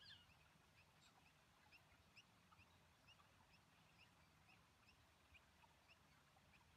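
Near silence with a bird's faint high chirps repeating about twice a second.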